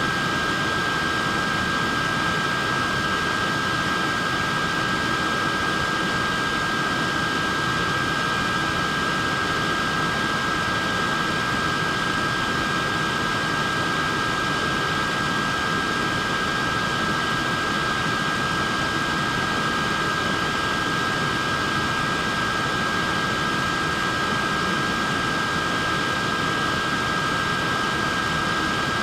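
Portable neck fan running steadily: an even rush of air with a steady high-pitched whine in two close tones.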